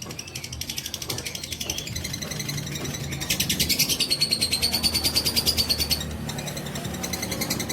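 Fighter lovebird's long, rapid, high-pitched chattering trill (the 'ngekek'), a fast run of repeated notes that grows loudest about three seconds in and eases off about six seconds in.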